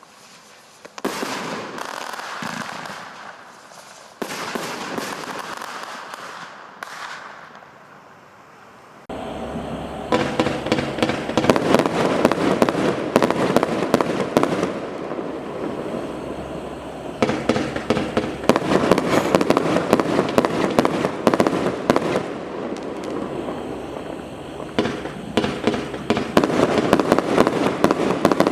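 Large display firework barrages (multi-shot cakes) firing with bangs and crackle, scattered at first. From about nine seconds in they turn into a dense, rapid volley of many shots a second that keeps going to the end.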